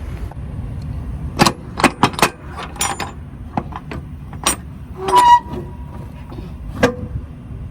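A string of sharp metallic clanks and clicks, a couple ringing briefly, as the rear door latches and lock bars of an empty dry van trailer are worked to open it. A low steady rumble runs underneath.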